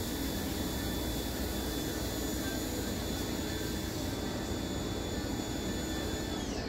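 Electric power tool motor running steadily with a high whine, then spinning down near the end as it is switched off.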